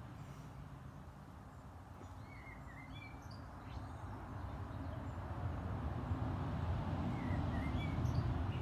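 Faint bird chirps in two short spells, about two seconds in and again near the end, over a steady low rumble of background noise.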